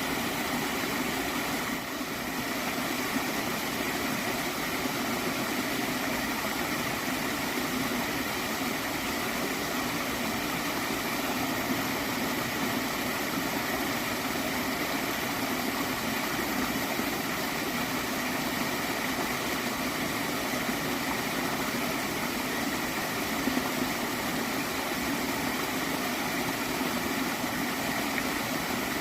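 Water stream flowing and gurgling steadily.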